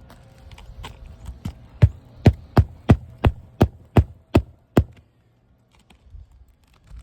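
Roofing hatchet hammering, most likely driving roofing nails to fasten down a repaired asphalt shingle: a few light taps, then about ten hard, evenly spaced strikes at roughly three a second that stop about five seconds in.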